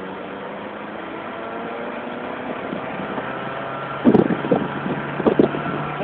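Ferrari engine running steadily while the car cruises, heard from inside the cabin. From about four seconds in, loud, short, irregular bursts cut across it.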